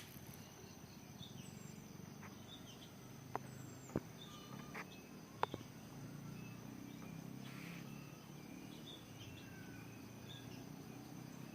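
Faint outdoor ambience with small birds giving short, scattered high chirps over a low rumble. Three sharp clicks come between about three and six seconds in.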